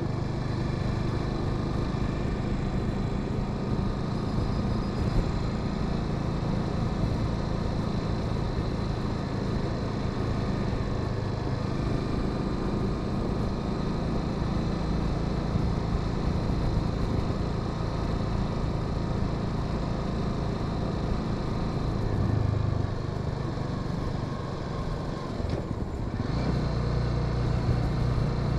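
Honda Sahara 300 single-cylinder motorcycle engine running steadily under way, with road and wind noise. Near the end the engine note dips briefly, then picks up again louder.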